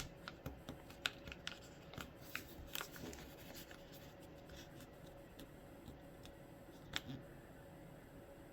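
A sheet of paper being folded and creased: soft scattered crinkles and taps, most of them in the first three seconds and one more about seven seconds in, over a faint steady hum.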